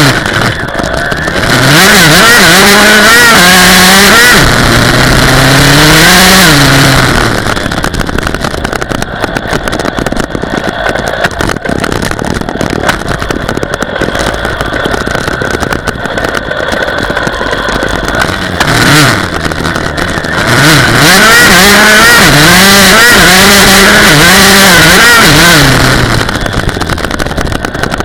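Dirt bike engine revving, its pitch repeatedly climbing and dropping. It is loudest for two stretches of several seconds, near the start and again near the end, and quieter in between.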